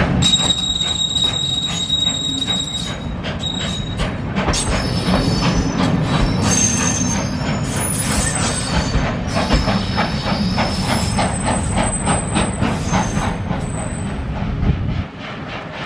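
Railway carriages rolling slowly past, their wheels squealing against the rails in several high steady tones and clicking in a regular rhythm over the rail joints. The sound drops away sharply near the end.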